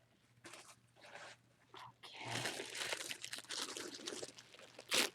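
Packaging being crinkled and torn open by hand. A few faint rustles come first, then from about two seconds in a continuous, irregular crinkling and crackling, with a louder burst near the end.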